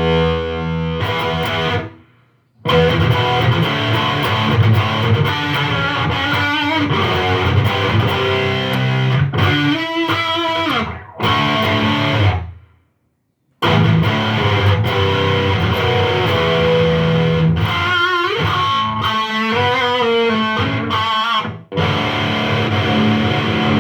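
Electric guitar with distortion played through a Line 6 Spider IV amp: chords and single-note runs, stopping abruptly twice, about two seconds in and about halfway through. The signal stays strong and does not fade away, a sign that the amp's weak-signal fault is fixed.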